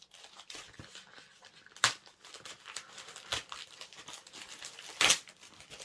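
Parcel packaging being handled and torn open by hand: a continuous crinkling rustle with two sharp, loud rips, one about two seconds in and one near the end.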